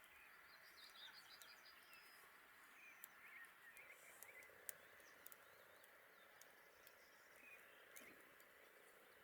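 Faint outdoor ambience: small birds chirping in short bursts, with scattered sharp crackles from a campfire.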